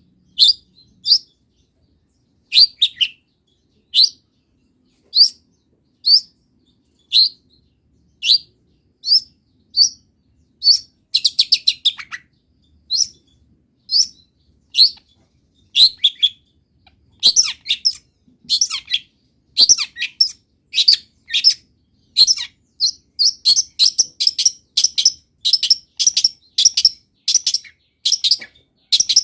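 Long-tailed shrike (cendet) singing loudly, with short sharp high notes about once a second that give way, from about halfway through, to fast runs of chirps. Its song is filled with imitations of wild birds' calls.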